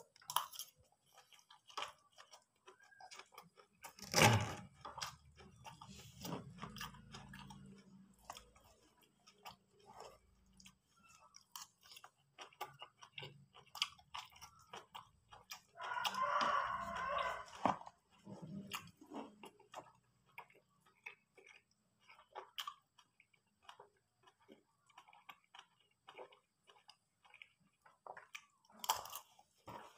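Close-up chewing of a mouthful of rice and vegetables, with irregular crunches of a fried kerupuk cracker and one louder crunch about four seconds in.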